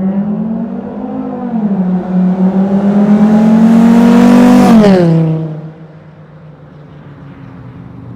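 Straight-piped Volkswagen 2.5-litre inline-five exhaust rising in pitch and getting louder, held high for a few seconds, then falling sharply as the throttle is let off about five seconds in, before settling to a lower, quieter drone.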